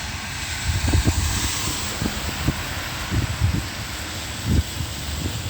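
Steady rain hiss with wind buffeting the microphone in low, irregular rumbles; about a second in, the hiss swells as a car passes on the wet road.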